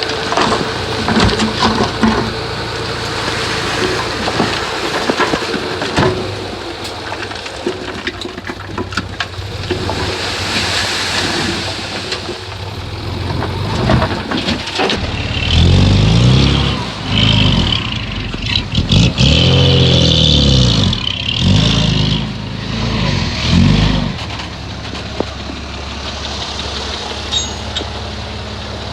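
Komatsu bulldozer's diesel engine working with scattered metallic knocks and clanks. About halfway through it revs up and down four times, then settles to a steadier, quieter running.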